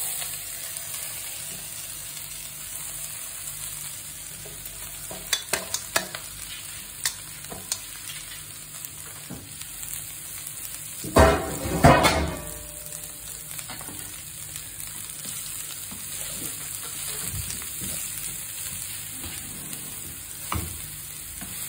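Shredded cabbage frying over a high flame in hot coconut oil in a nonstick wok, a steady sizzle, with the spatula stirring and clicking against the pan. About halfway through there is a louder double clatter.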